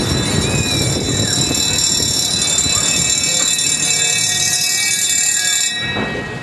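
A loud, steady, high-pitched electronic alarm tone sounding without a break, then cutting off suddenly near the end. Voices murmur underneath.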